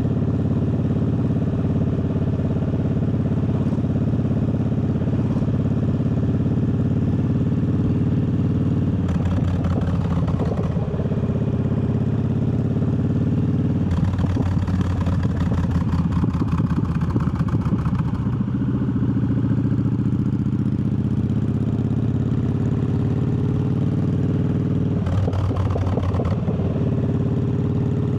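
Triumph Bobber's parallel-twin engine running steadily while riding. Three times it turns rougher and more pulsing for a second or a few: about nine seconds in, in the middle, and near the end.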